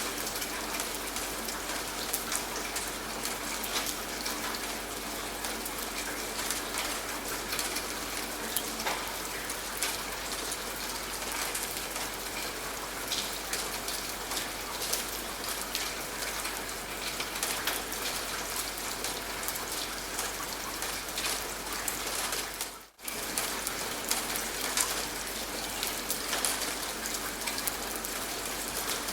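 Steady rain falling, with many separate drops ticking through it. The sound dips out for a moment about three-quarters of the way through, then resumes.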